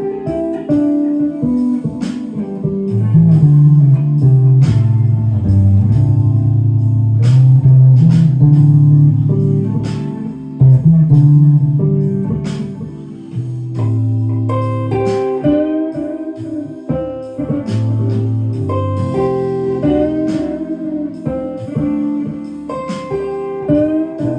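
Clean-toned electric guitar improvising a bluesy solo in A minor, with bent notes sliding up in pitch in the second half.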